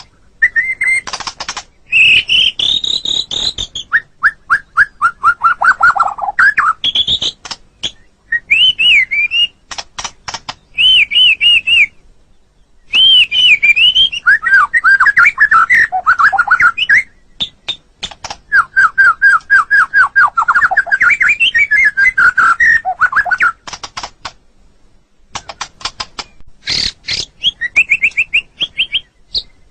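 White-rumped shama (murai batu) singing: a varied string of loud whistled phrases, fast runs of repeated notes and sharp clicks, each phrase a second or two long with short pauses between.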